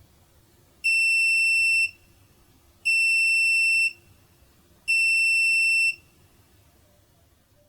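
A washing machine's electronic buzzer sounds three long, high, steady beeps, each about a second long and two seconds apart, the kind of signal that marks the end of the wash cycle.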